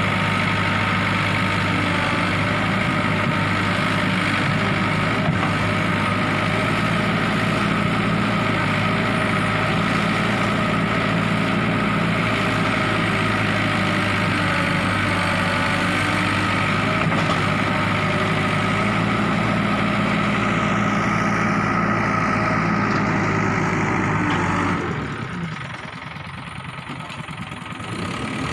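ACE AX130 backhoe loader's diesel engine running steadily. About 25 seconds in the sound drops away sharply and thins out, then comes back near the end.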